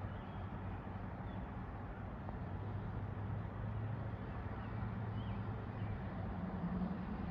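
A steady low hum over an even rushing background noise, with a few faint short high chirps.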